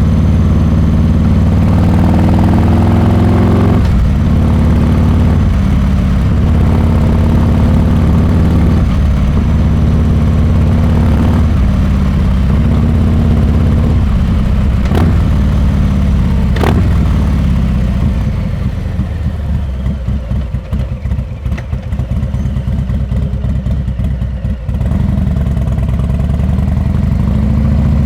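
Harley-Davidson Milwaukee-Eight 114 V-twin running loud through a Rinehart exhaust while riding: it pulls up through the gears in rising steps, with two sharp clicks about halfway through. About two-thirds in the throttle rolls off into a choppy, pulsing off-throttle burble for several seconds, then it comes back on steady near the end.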